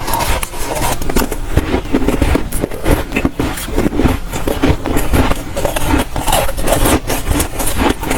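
A person biting and chewing soft, dry freezer frost, a dense run of crunches close to the microphone.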